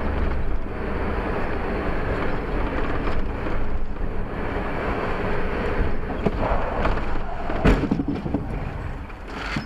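Steady rumble of a moving car with wind buffeting the dashcam microphone, broken by a sharp knock about three quarters of the way through and another just before the end.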